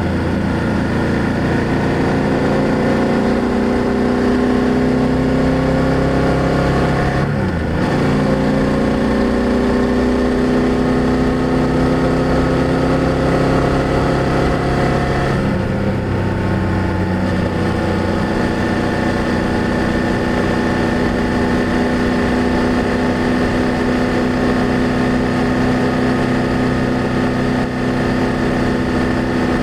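2024 BMW F800GS parallel-twin engine and exhaust under way, pulling up through the gears. The pitch rises, drops with an upshift about seven seconds in, rises again and drops with a second upshift around fifteen seconds, then holds steady at a cruise.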